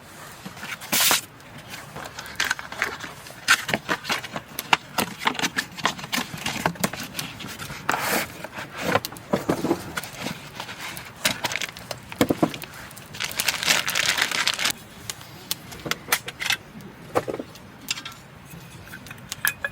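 Irregular clicks and knocks with a few longer scraping rustles, like gear being handled, the longest rustle about two-thirds of the way through.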